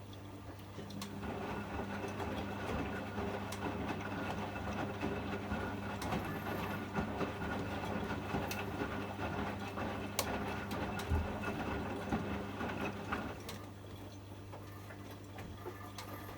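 Privileg 804 washing machine running: a steady low hum, with a louder mechanical whirr that starts about a second in and dies away about thirteen seconds in, and scattered clicks.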